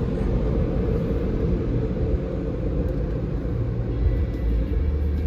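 Steady low rumble of a BMW car driving, heard from inside the cabin: engine and tyre noise.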